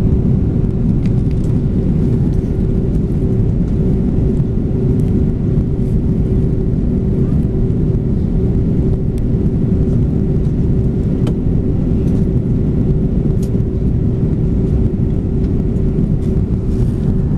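Steady cabin noise of an Airbus A330-200 airliner on approach to land: a low rumble of engines and airflow with a constant hum, and a few faint clicks.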